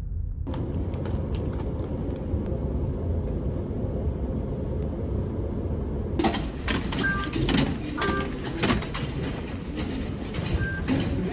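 Steady low rumble of a vehicle in motion. From about halfway through come many sharp clicks and a few short high beeps at two pitches.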